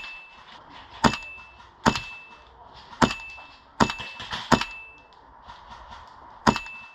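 Airsoft gun firing about six single shots, roughly one a second, each crack followed by a short metallic ring.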